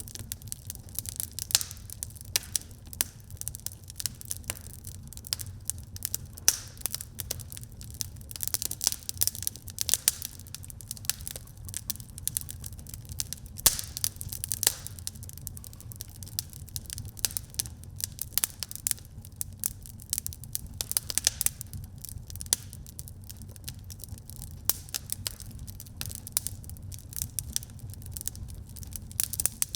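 Fire in a fireplace crackling, with frequent irregular sharp pops over a low steady rumble.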